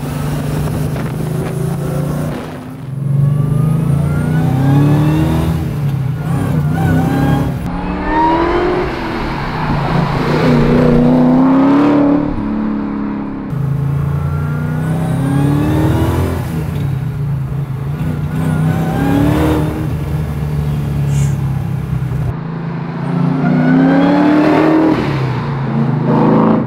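Supercharged 6.2-litre Hellcat HEMI V8 of a 1969 Plymouth Road Runner accelerating hard through the gears of its six-speed manual. The engine note climbs in pitch and drops at each upshift, in several pulls.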